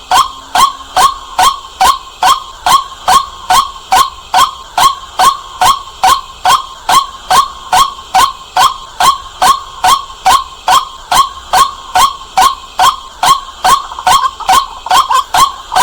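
White-breasted waterhen calling: a loud, short, clipped note repeated steadily about three times a second, slightly quicker and less even near the end.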